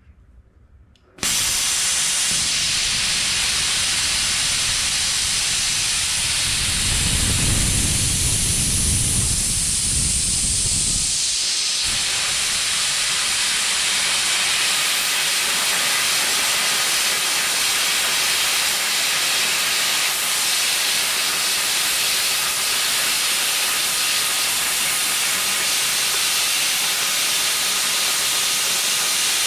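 Plasma cutter torch hissing steadily as it cuts steel angle iron, switching on suddenly about a second in. A deeper noise joins the hiss for several seconds in the middle, then the steady hiss carries on.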